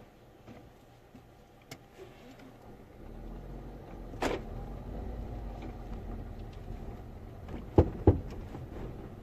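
2009 Ford Focus Mk2.5 moving slowly with a low rumble. One clunk comes from the front suspension about four seconds in, then two sharp knocks in quick succession near the end. These are the knocks of a worn upper subframe bushing on the driver's side, which show up when the body twists, as over a gutter.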